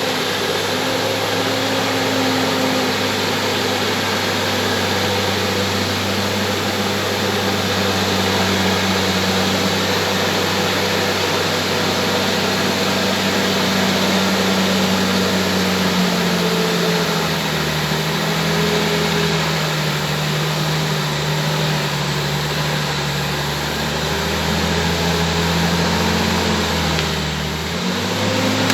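Bulldozer's diesel engine running steadily; about two-thirds of the way through its pitch drops lower, then rises back near the end.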